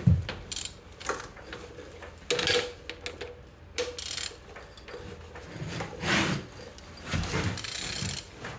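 A removed Peugeot/Citroën DV6DTED 1.6 HDi diesel engine being turned over by hand: irregular metallic clicks, scrapes and a few dull knocks from the tool and the turning internals. It turns freely, a sign that the engine is not seized.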